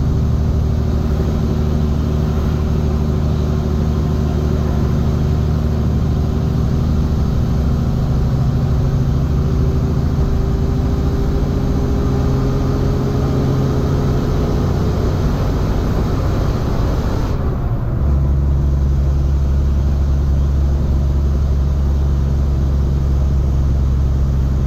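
Tractor-trailer engine running steadily while the truck is driving, a continuous low drone with road noise. The engine note climbs slowly through the middle, and about 17 seconds in the sound shifts to a deeper, heavier rumble with less high-end noise.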